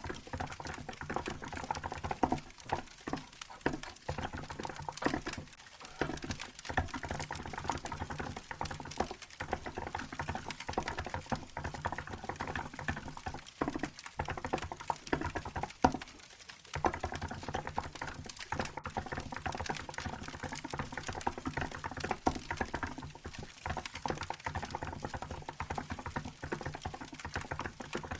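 Steady, fast typing on a Hansung GK868B mechanical keyboard fitted with milk keycaps: dense key clicks with a short pause a little past halfway. Behind it, wood-fire crackle plays.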